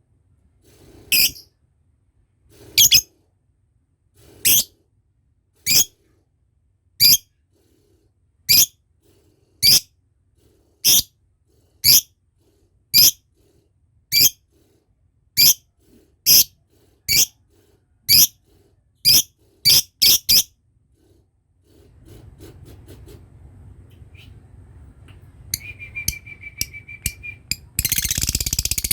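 Lovebird giving short, sharp, high-pitched single calls about once a second, some eighteen in all, coming a little faster toward the end. After a short lull with a low rumble and a brief steady whistle-like tone, a loud rapid chatter sets in near the end.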